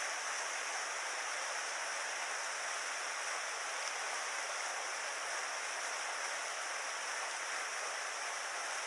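Mountain stream water rushing in a steady, even flow.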